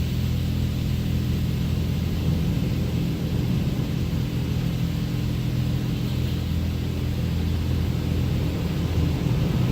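Automatic car wash equipment running: a steady low rumble with a hiss of spray, growing louder near the end.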